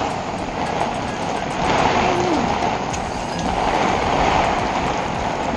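Heavy rain pouring down, a dense steady hiss that swells and eases slightly.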